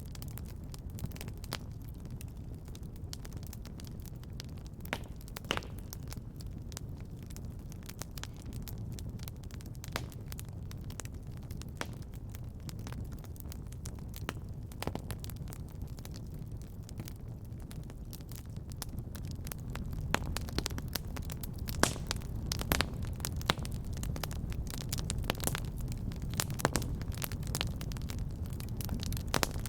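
Fireplace fire crackling: a steady low rumble of flames with scattered sharp pops, which come more often in the last third.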